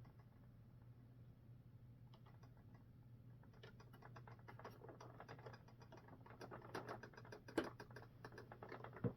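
Faint, irregular small clicks and taps of small parts being handled. They start about two seconds in and grow busier, with two sharper knocks near the end, over a faint steady low hum.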